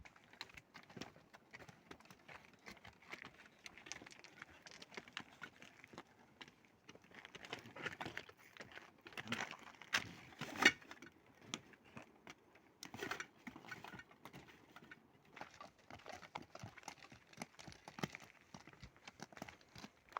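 Footsteps of hikers walking on a trail: a steady run of irregular scuffs and clicks, loudest about halfway through.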